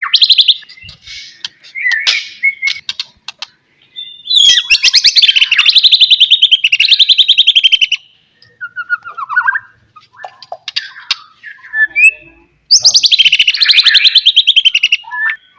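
White-rumped shama (murai batu) singing: varied whistles and short notes, broken twice by long, very rapid rattling trills that slide down in pitch, one of about three and a half seconds and a shorter one near the end.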